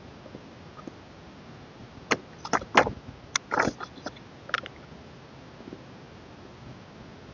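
Album packaging and contents being handled: a cluster of sharp clicks and crinkling rustles about two seconds in, dying away by the middle, over a low steady background hiss.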